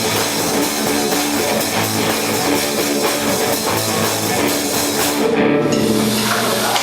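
Live rock band, with electric guitar and drum kit, playing loudly. Near the end the cymbals briefly drop out and the band holds out the song's closing notes.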